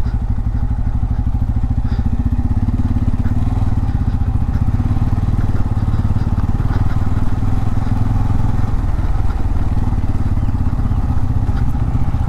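Bajaj Pulsar N250's 249 cc single-cylinder engine running steadily under way, heard from on the bike, with no revving up or down.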